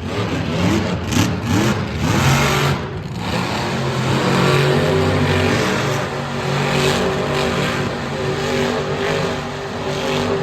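Monster truck supercharged V8 engines revving hard: the pitch rises and falls sharply in the first few seconds, then holds steadier at high revs.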